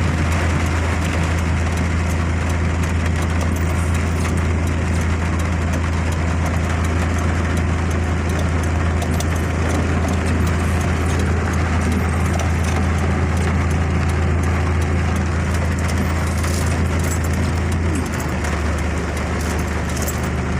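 A car's engine and road noise make a steady low drone over an even hiss. The drone's pitch shifts slightly near the end.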